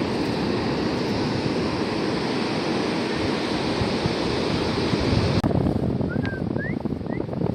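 Steady rush of surf with wind noise on the microphone. It changes abruptly about five seconds in, after which a few short high rising chirps are heard.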